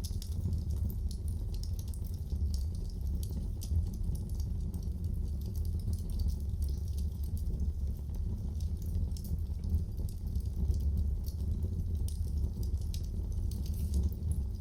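Wood fire crackling in a fireplace: many small, irregular snaps and pops over a steady low rumble.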